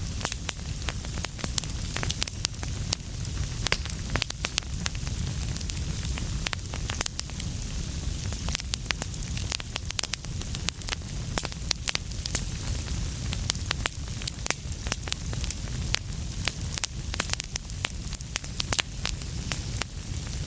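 Wood fire crackling, with many sharp, irregular pops and snaps over a steady low rumble of the flames.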